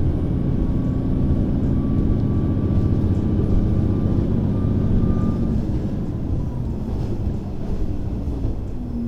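Train running, with a steady low rumble and a humming motor note, easing off slightly in the second half.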